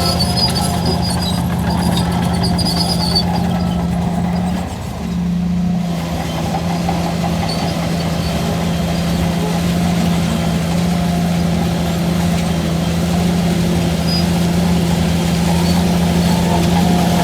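Bulldozer's heavy diesel engine running steadily under load, its level dipping briefly about five seconds in. A thin high squeal comes and goes during the first few seconds.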